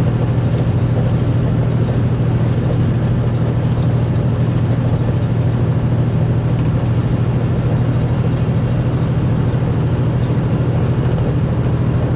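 Semi truck's diesel engine running steadily at cruise, heard from inside the cab as a constant low drone with road noise over it.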